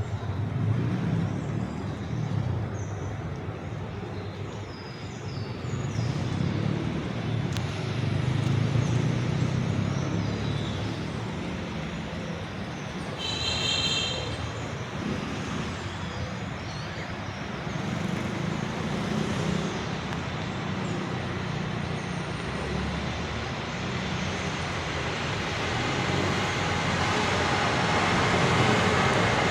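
Steady city road traffic, a continuous rumble that swells and fades as vehicles pass, with a brief high-pitched tone about fourteen seconds in.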